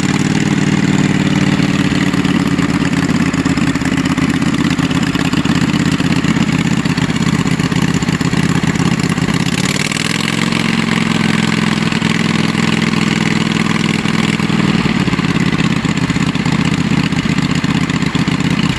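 Kohler 24 hp engine on a riding mower running steadily just after starting, with no muffler fitted so the exhaust is open. Engine speed rises slightly about ten seconds in, then holds steady.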